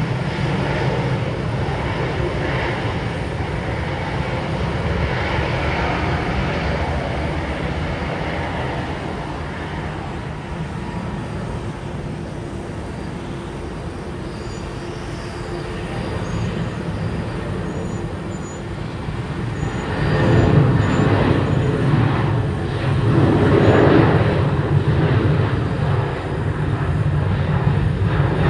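Jet airliner engines running, a steady roar that swells noticeably about two-thirds of the way through as the aircraft passes closer.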